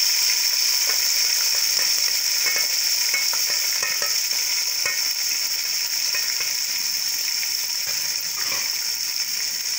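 Chopped tomatoes, green chillies and ginger sizzling in hot oil with browned onions in a steel pot, a spoon stirring with a few light clicks; a steady sizzle that eases slightly towards the end.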